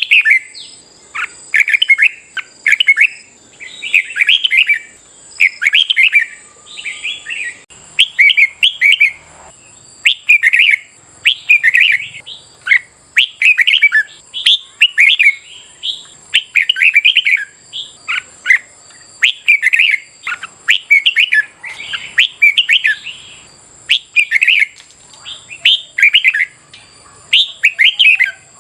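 Red-whiskered bulbul song: short, loud warbled phrases repeated about once a second with hardly a pause, as in a bird-keeper's training recording.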